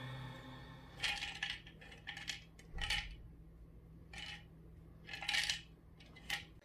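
A dog's snack toy rattling and clattering in about six short bursts, hard little pieces knocking about, as a toy poodle works at it to get the treats out.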